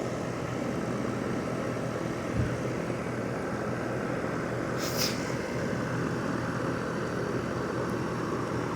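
Rheem 3-ton heat pump outdoor unit running in cooling mode: the compressor and condenser fan give a steady, even whir with no rattling. A brief hiss comes about five seconds in.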